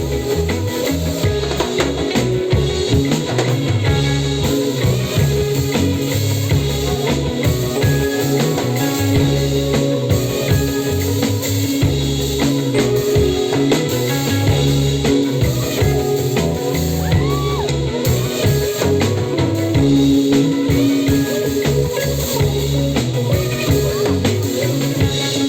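Live band playing psychedelic trance-style music: drum kit with a steady beat, bass, electric guitar and keyboards.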